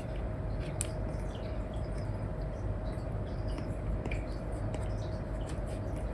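Apple Pencil with an Elecom nib tapping and scratching on an iPad's paper-like screen protector: scattered light ticks over a steady hiss and low hum.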